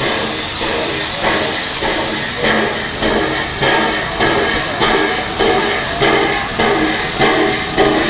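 Steam locomotive working: a steady hiss of steam at first, then regular exhaust chuffs about every 0.6 seconds, growing louder toward the end.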